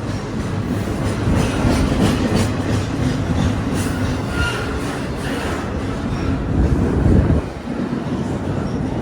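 A train's cars rolling past at low speed: a steady rumble with wheels clicking over the rail joints and brief squeals of wheel on rail about halfway through.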